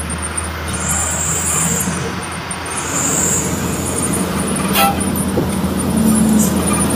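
Truck traffic on a road: steady engine hum and tyre noise, with a sharp click a little under five seconds in.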